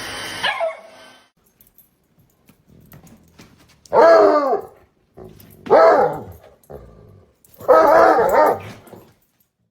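A dog giving three loud, drawn-out pitched barks with a rise and fall in pitch, spaced about two seconds apart; the last is the longest.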